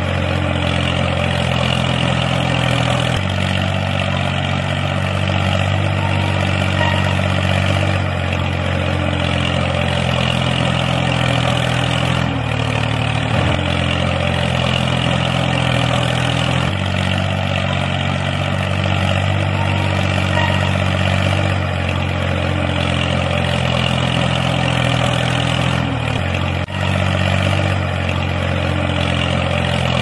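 Tractor engine running steadily, its pitch shifting slightly every few seconds.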